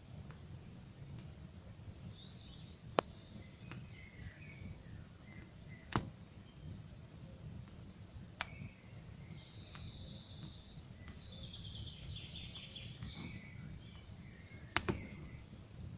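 Campfire burning with a low steady rumble and a few sharp crackling pops, about four in all, under forest birdsong; a fast trilling bird song rises over it in the middle part.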